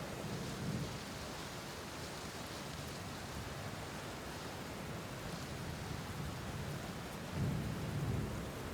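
Steady rain falling, with a low rumble of thunder swelling about seven and a half seconds in.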